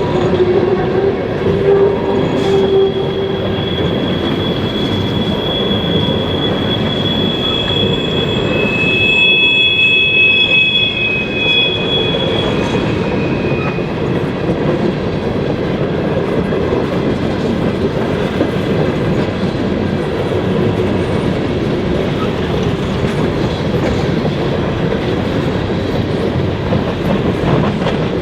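A train rolling past close by: a steady heavy rumble and clatter of railcars on the track. From about two seconds in to about halfway through, high-pitched wheel squeal sounds over it.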